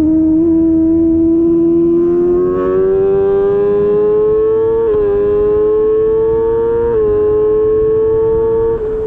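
Racing superbike's engine at high revs, its pitch climbing slowly through a long pull, with brief dips in pitch about five and seven seconds in as it shifts up.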